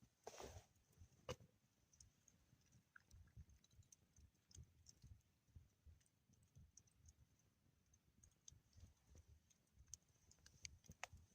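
Near silence with faint, irregular small clicks.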